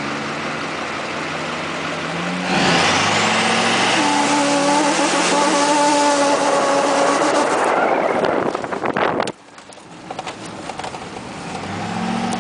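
Duramax V8 turbo diesel engine idling, then revved hard about two and a half seconds in with a rising whistle. It holds high revs for about five seconds, breaks up and drops off sharply, then settles back toward idle.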